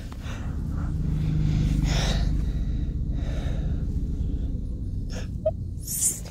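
Heavy, low rumble of a locomotive running on the rails, building over the first two seconds and then steady, with a few short hissing bursts and a sharp hiss near the end.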